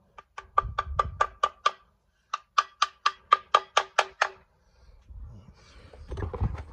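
Hammer tapping a new front crankshaft seal into place through a tapping stick. There are two quick runs of light taps, about five a second, each with a short ringing note: seven taps, a brief pause, then nine more. A low rumble of handling follows near the end.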